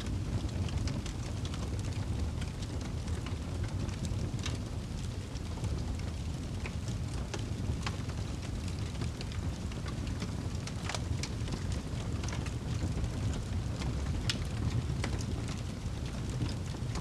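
Wood fire crackling, with scattered sharp pops and snaps a second or more apart, the loudest about two-thirds of the way through, over a steady low rumble like wind.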